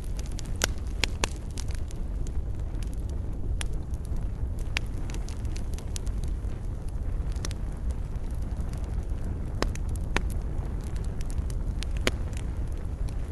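Campfire burning: a steady low rumble of flames under irregular, sharp crackles and pops from the burning wood.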